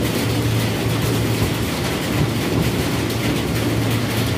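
Electric commuter train moving past the platform: a steady rumble of wheels on rails, with rain falling on the wet platform.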